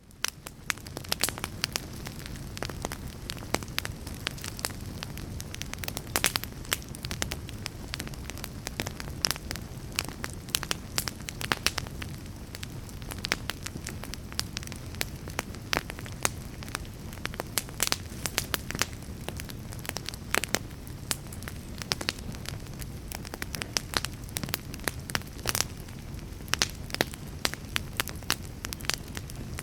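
Crackling fire: a steady low rush of flames with dense, irregular sharp pops and snaps. It fades up out of a brief silence at the start, then carries on evenly.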